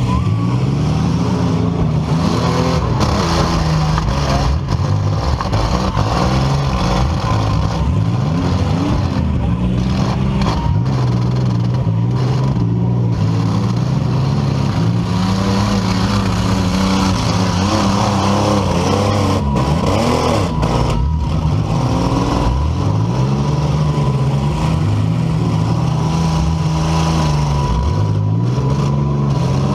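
Several compact-car engines revving up and down hard and running at high speed over a steady din, as the cars in a demolition derby drive and ram one another.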